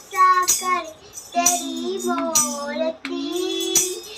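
A young girl singing a Hindi Krishna bhajan in short held, gliding phrases, with sharp jingling percussion hits marking the beat every half second to a second.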